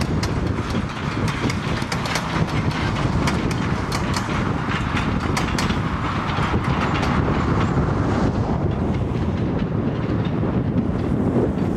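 Durango & Silverton narrow-gauge train rolling along the track, its wheels clicking over the rail joints over a steady rumble. The clicking thins out about eight seconds in.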